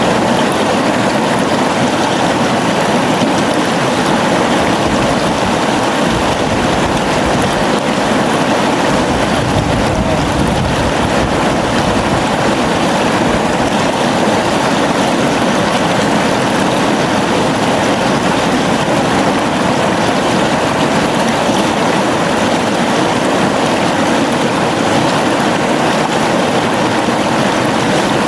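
A gently flowing river: a steady, even rush of running water, with a short deeper rumble about a third of the way in.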